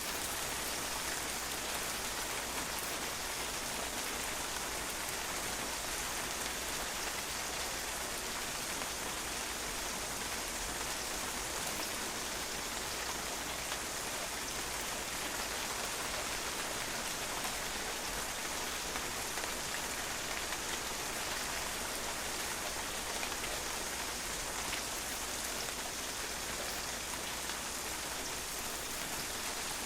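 Steady rain falling and splashing on a patio, an even, unbroken patter of drops.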